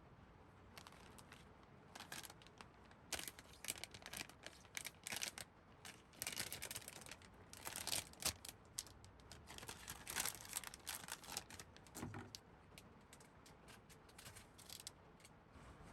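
Light rustling and crinkling with quick irregular clicks, as of things being handled, busiest in the middle few seconds.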